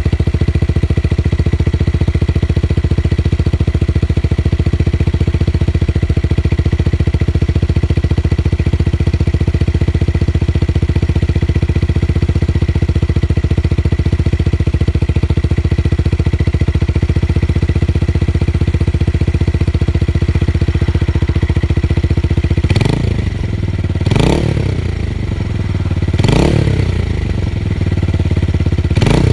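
Motorcycle with a tuned, bass-heavy exhaust idling steadily, then blipped four times near the end, each rev rising and falling quickly.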